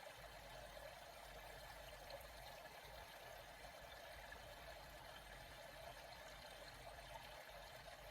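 Faint, steady rush of flowing water, even and unbroken, with no splashes or paddle strokes.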